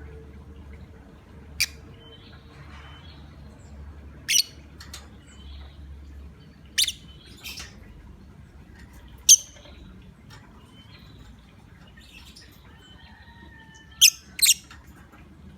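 Lovebird giving short, sharp, high-pitched chirps, one at a time, spaced a few seconds apart, with a pair close together near the end.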